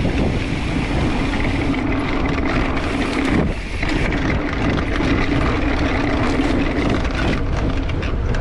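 Wind rushing over the ride camera's microphone and mountain bike tyres rolling on a dirt trail at speed, a steady hum with a short dip about three and a half seconds in.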